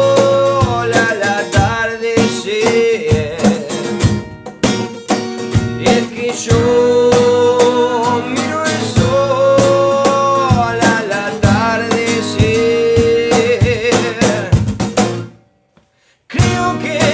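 A band playing a song with acoustic guitar and drums, a held melody line over the top and no sung words. Near the end the music stops dead for under a second, then comes back in.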